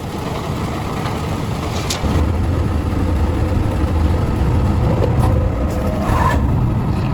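Machinery running with a steady low hum that grows louder about two seconds in, with a few faint clicks.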